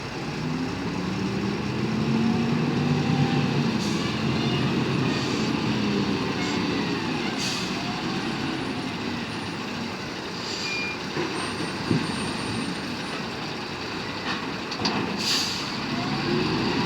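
Heavy truck engine running, its pitch rising over the first few seconds and then easing, with a few short hissing bursts of air.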